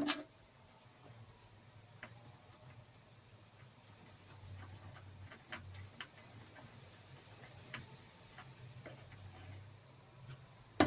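Faint, scattered light clicks and ticks of small metal parts and tools being handled while fitting parts to the welder's wire-feed unit, over a low steady hum. A sharper click comes at the start and another near the end.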